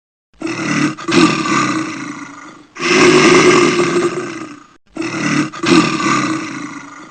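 A big cat roaring: three long roars of about two seconds each, with short pauses between them.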